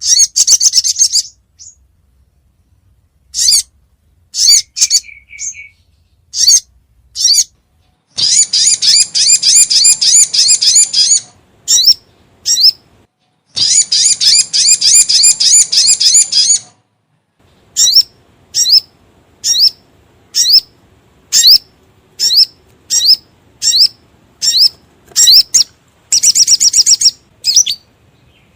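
Little spiderhunter (sogon) calling: loud, sharp, high chips about once a second, broken three times by a rapid chattering trill lasting two to three seconds. This is a bird-trapping lure call meant to draw the bird in.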